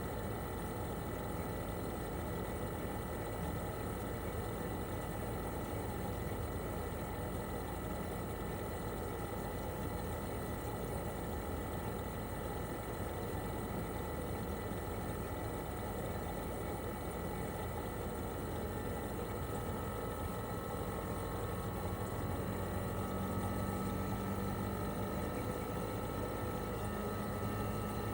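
Toshiba RAS-285BAD mini-split outdoor unit running in cooling mode: its twin rotary compressor hums steadily under the rush of the propeller fan. A faint whine rises slightly in pitch and the low hum grows a little louder over the last third.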